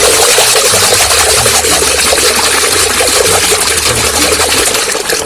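Loud, steady rushing and splashing of water over a muddy toy car as it is rinsed clean.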